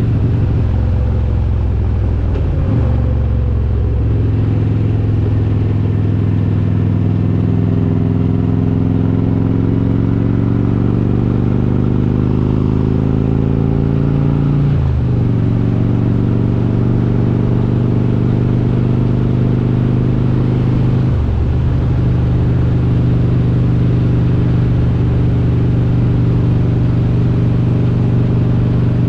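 Harley-Davidson Road King V-twin, built up to 95 cubic inches with S&S Super Stock heads, running under way. The engine note climbs slowly, then drops abruptly at gear changes about three seconds in, near the middle and again about two-thirds through, and holds steady between the changes.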